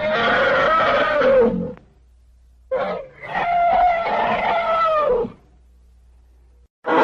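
Vintage elephant trumpeting sound effect. One long, brassy call bends down in pitch at its end. After a pause comes a short call and then a longer one, with a low hum from the recording in the gaps between.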